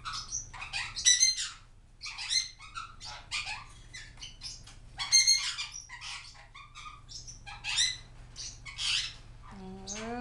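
Several pet parrots chirping and squawking over one another in a string of short, sharp calls, with a rising-then-falling whistled or voiced call near the end.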